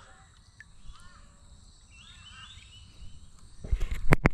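Birds calling in the background, a run of short arching notes repeated several times. Near the end, a few loud knocks and thumps.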